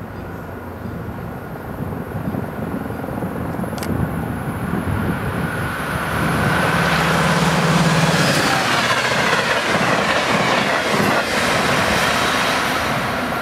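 MARC commuter train passing on the track: a rush of wheel-and-rail noise that grows louder over the first six seconds and then holds, with a steady high ringing tone and a low hum near the middle.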